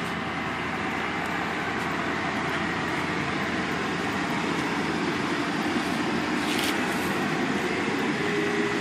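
2004 Mercury Grand Marquis 4.6-litre V8 idling steadily just after a cold start in freezing weather, still on its raised cold-engine idle.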